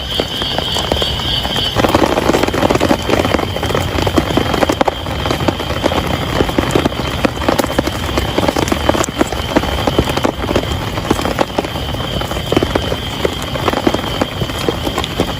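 Heavy rain pattering, with dense, irregular drops striking a surface close by. A steady high-pitched tone sounds behind it, strongest at the start and dropping away about two seconds in.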